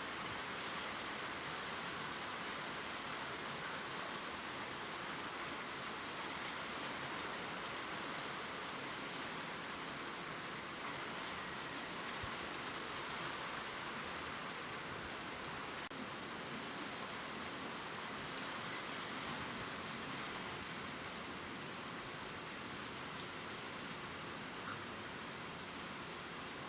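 Steady gentle rain falling on leaves, an even hiss with faint scattered drop ticks.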